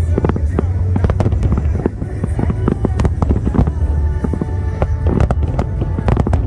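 Aerial fireworks going off in rapid succession: many sharp bangs and crackles, some in quick clusters, over steady music and a constant low rumble.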